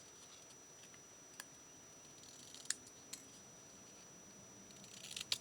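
Scissors cutting cardstock: a few faint, separate snips, then a quicker cluster of snips near the end.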